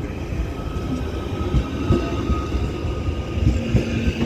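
Merseyrail Class 777 electric multiple unit pulling away: a steady rumble with a thin, steady whine and short knocks from the wheels, growing louder.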